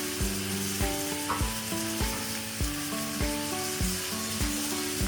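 Pork pieces sizzling as they brown in butter in a pot, under background music with a steady thumping beat about every 0.6 seconds.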